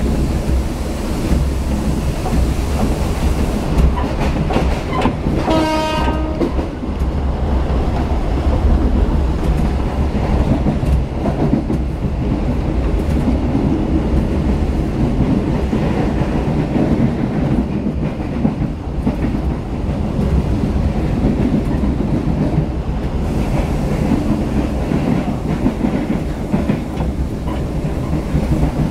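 Diesel-hauled passenger train running along the track with a steady low rumble. The locomotive's horn gives one short blast about six seconds in.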